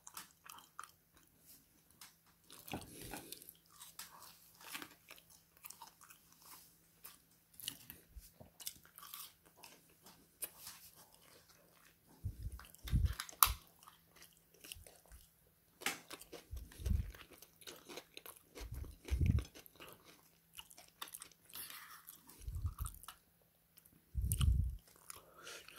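A person chewing and crunching food close to the microphone. Scattered sharp clicks run throughout, with a few dull thumps in the second half.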